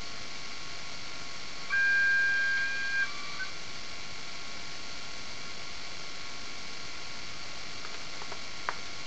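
Hornby Class 90 model locomotive's DCC sound decoder starting its start-up sequence through its small speaker: a steady hiss, a beep-like tone of a few steady pitches for about a second and a half about two seconds in, and a single sharp click near the end.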